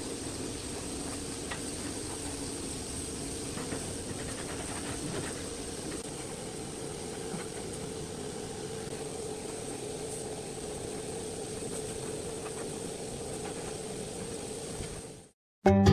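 A steady machine hum with a thin high whine over it and a few faint light clicks, cutting off abruptly near the end.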